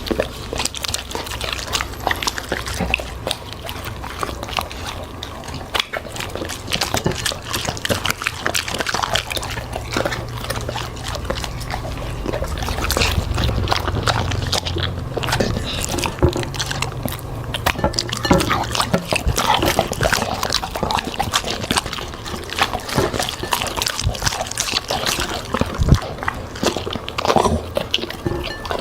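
A dog eating fruit and vegetables: continuous wet chewing, crunching and mouth smacking, an irregular stream of short crunches.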